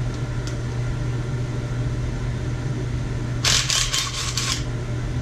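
Steady low hum of a running shop fan. About three and a half seconds in comes a burst of rapid rasping clicks, lasting about a second, from a hand tool working a fastener on the engine.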